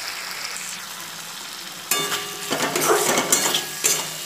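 Chopped tomato sizzling in hot mustard oil and spice paste in a metal kadai. About two seconds in, a metal spatula starts stirring it, scraping against the pan over the sizzle.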